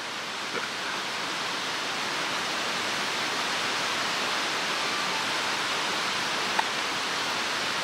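Mountain stream water rushing steadily, a constant even hiss of flowing water, with one small click about two-thirds of the way in.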